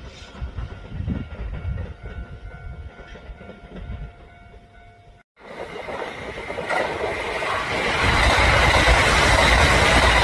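Train running on rails. A quieter stretch with a faint steady whine is broken off by a sudden cut about five seconds in, followed by louder steady running noise that builds over a couple of seconds.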